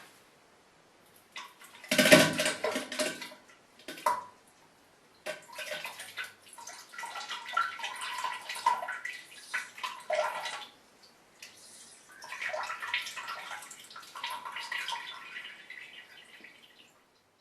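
Wet poop sound effects: several bursts of splattering and plopping into water, separated by short gaps, the loudest about two seconds in.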